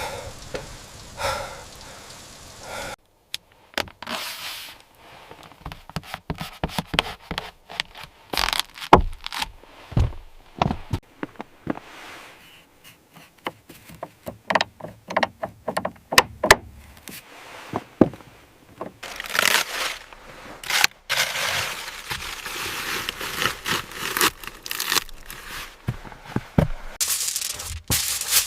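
Rain sound cuts off sharply about three seconds in. It gives way to a long run of scrapes, knocks and thunks from hand work with materials, with longer scraping passes near the end.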